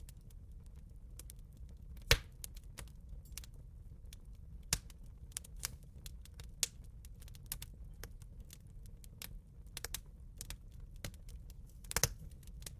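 Campfire crackling: irregular sharp pops and snaps of burning wood over a low steady rumble, with one loud pop about two seconds in and a cluster of pops near the end.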